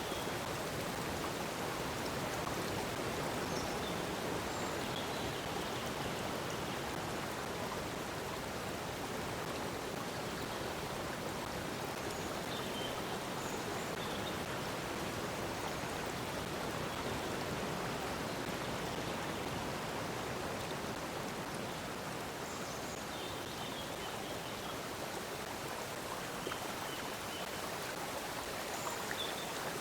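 Stream water flowing steadily, with short high bird chirps here and there.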